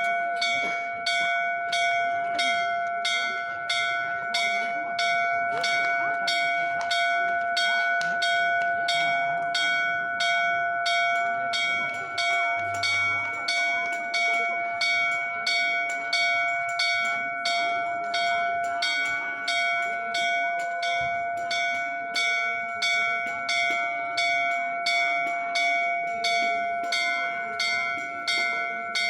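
A church bell struck over and over at an even pace, about two strokes a second, its ring carrying on between strokes.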